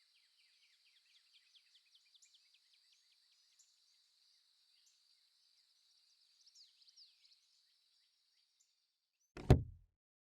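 Faint high chirping of forest ambience that fades away. Near the end comes one loud wooden thump of a door, as the cabin door is reached.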